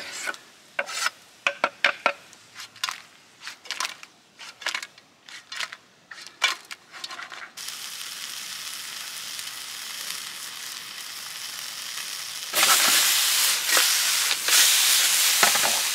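Sharp irregular knocks of a knife cutting tomato on a wooden chopping board. About seven and a half seconds in, a steady sizzle starts from the hot oiled wok of marron, garlic and chilli. The sizzle gets much louder about twelve and a half seconds in, as the wok is stirred.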